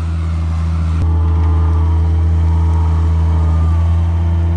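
Truck engine running with a steady low drone as the vehicle moves off, with a sharp click about a second in after which it gets a little louder.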